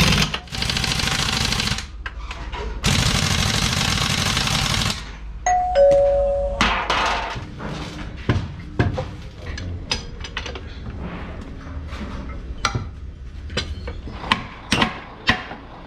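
Workshop sounds: two long bursts of loud hissing noise, a brief ringing tone about six seconds in, then a run of sharp, irregular metal knocks and clinks.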